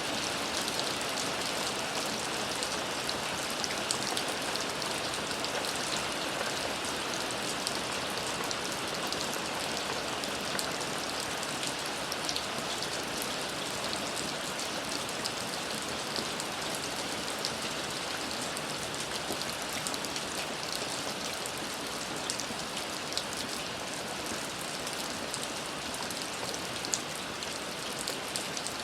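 Steady rain falling, a dense even hiss with many fine drop ticks on surfaces.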